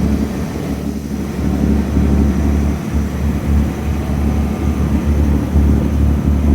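Fishing boat's engine running steadily, with wind rumbling on the microphone.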